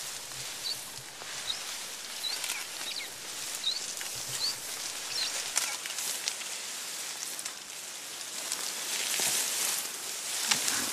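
A small bird gives a string of short, high chirps, about one every second, over the first five seconds or so, over a steady hiss of forest background with scattered faint clicks.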